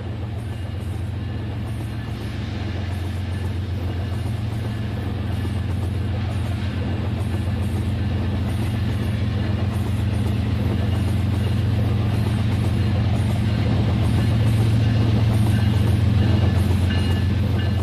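Battery-powered Rail King toy train running: a steady low motor hum with a fast, even pulse and a regular repeating sound higher up, growing louder then easing slightly near the end.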